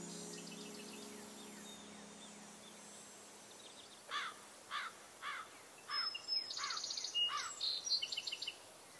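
Background music fading out over the first two seconds, then a bird calling: a run of about seven short falling chirps roughly half a second apart, with higher, faster notes among them near the end.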